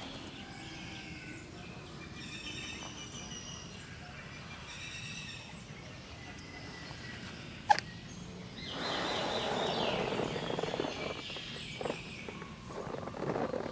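Outdoor ambience with small birds chirping and calling, a sharp click about eight seconds in, then a louder, even hiss of noise over the last few seconds.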